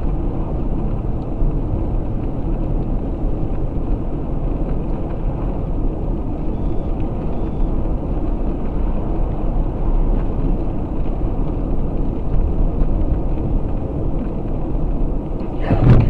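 Steady car driving noise, engine and tyres rumbling, as heard from inside a moving car. A louder, briefer sound rises right at the end.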